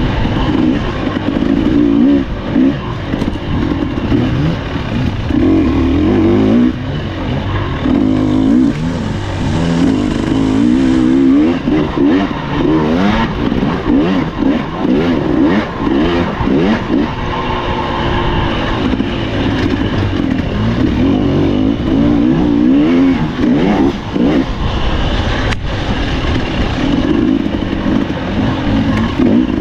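Husqvarna TE300 two-stroke enduro dirt bike engine revving up and falling back again and again as it is ridden hard on the throttle. Scattered sharp knocks come through, one of them about 25 seconds in.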